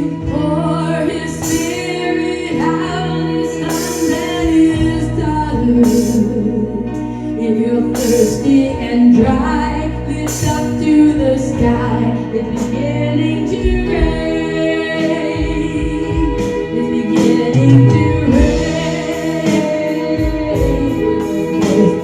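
Gospel worship music: singing over a full instrumental accompaniment.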